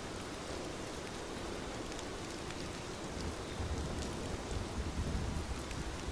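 Steady rain falling, an even hiss with scattered individual drops ticking. A low rumble swells up past the middle and then eases.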